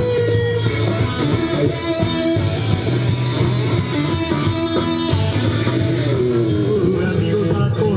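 Blues band playing, with guitar to the fore.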